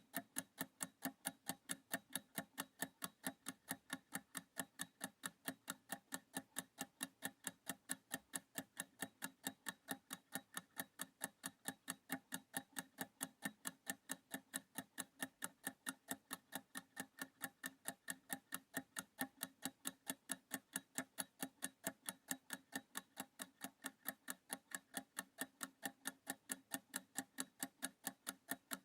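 Clock-style ticking sound effect counting down a practice timer: short, even ticks at about two to three a second, steady throughout.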